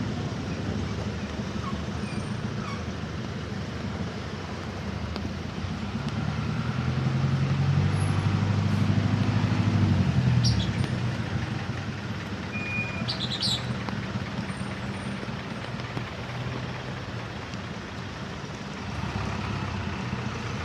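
Street traffic: vehicle engines running low and steady, with one vehicle growing louder from about six seconds in, passing close about ten seconds in, then fading. A few short high chirps sound just after it passes.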